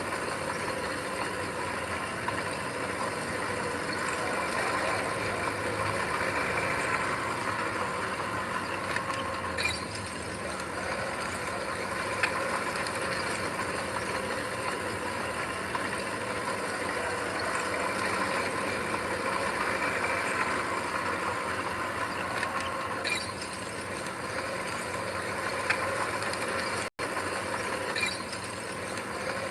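Bulldozer's diesel engine running steadily under a continuous mechanical clatter of tracks and gear. The sound drops out for an instant near the end.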